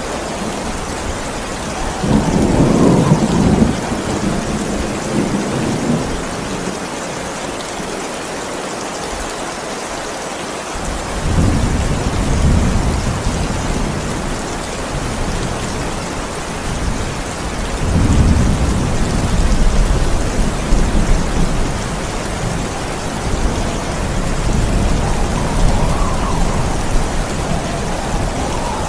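Steady heavy rain falling, with thunder rolling in low rumbles four times.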